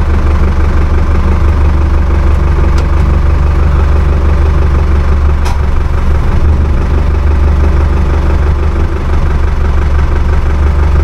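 Ford farm tractor's engine running steadily and loudly at low revs, an even hum with no change in pitch.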